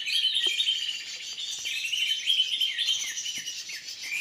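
Small songbirds chirping and twittering, many quick high calls overlapping without a break.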